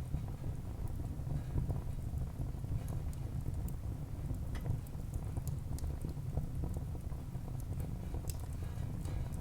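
Wood fire burning in a fireplace: a steady low rumble of the flames with scattered, irregular crackles and pops from the burning wood.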